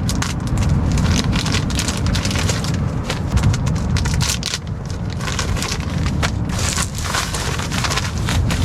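Crinkling and rustling of disposable hand-warmer packets being torn open and shaken, many small irregular crackles over a steady low rumble.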